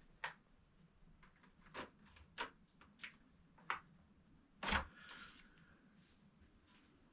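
Metal paint can being handled and its lid pried open: a handful of sharp clicks and knocks spread over several seconds, the loudest near five seconds in, followed by a brief faint ring.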